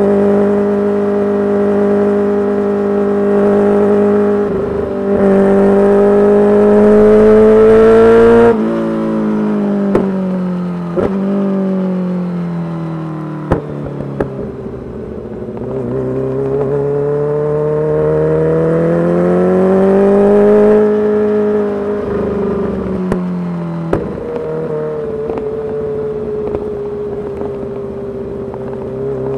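Kawasaki Ninja H2's supercharged inline-four running through a full titanium exhaust under riding load: the engine note holds, drops off as the throttle closes about a third of the way in, then climbs with rising revs and drops again. A few sharp exhaust cracks come as the revs fall.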